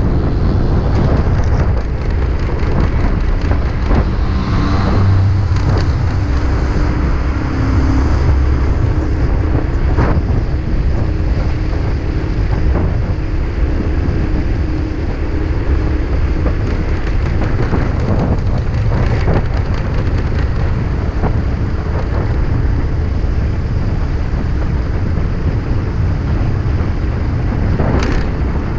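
Freshly overhauled motorcycle being ridden on the road, its engine running beneath heavy wind noise on the microphone. The engine's tone comes through more clearly for a few seconds, about five to ten seconds in.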